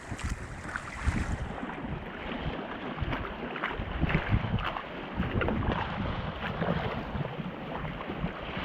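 Sea waves washing and slapping around a kayak in a sea cave: a steady wash of water broken by frequent short splashes, with wind buffeting the microphone.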